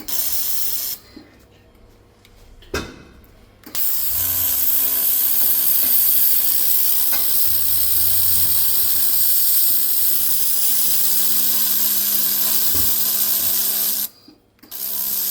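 Handheld laser welder running while the weld is laid round a part turning in a lathe: a steady, loud hiss with a faint hum beneath. It cuts out about a second in and resumes some three seconds later, then drops out again briefly near the end.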